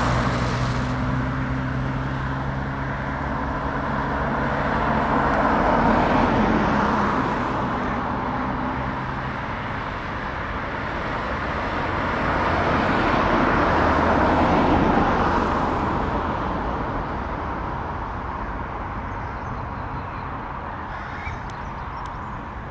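Heavy trucks driving past one after another, engine and tyre noise swelling as each passes, loudest about six and fourteen seconds in. A steady engine hum underlies the first half and drops away just before the middle.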